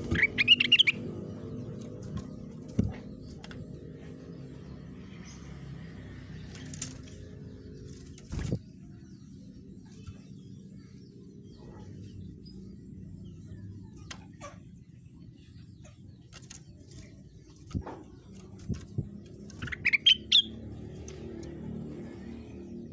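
A rengganis songbird giving two short, quick bursts of high rising chirps, one right at the start and one near the end, with scattered faint clicks between them.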